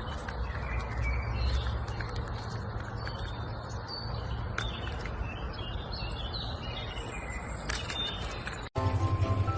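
Birds chirping faintly over a steady low hum and background noise, with a few small clicks; near the end it cuts to music with a steady beat.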